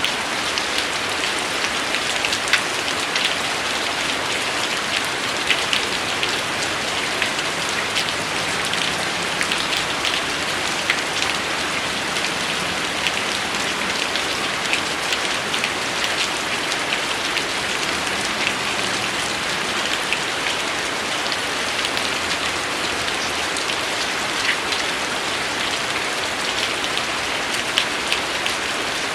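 Steady rain with a constant hiss and many distinct drops ticking sharply on a surface.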